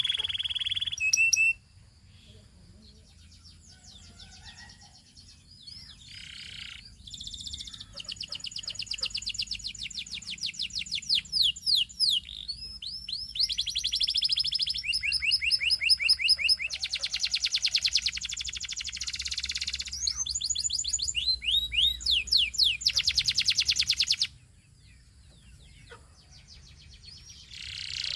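Canary singing in long runs of fast repeated trills and rolls. It breaks off after about a second and a half, picks up again after about seven seconds with a dense run, and stops suddenly about four seconds before the end.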